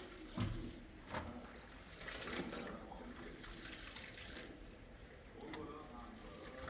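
Water running and splashing, with a few sharp knocks, the loudest about half a second in.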